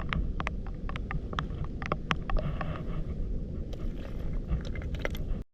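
Low outdoor rumble of wind on the microphone, with many irregular sharp clicks and taps over it. It stops suddenly near the end.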